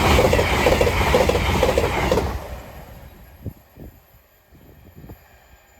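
CrossCountry passenger train, a Voyager diesel unit, passing at speed: a loud rush of wheels on rail with a short run of evenly spaced clicks. It dies away after about two seconds, leaving a few faint knocks.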